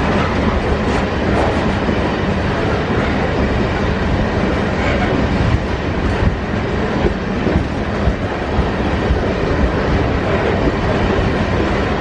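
Loaded iron-ore freight wagons rolling steadily past, a continuous heavy rumble of steel wheels on rail with occasional knocks.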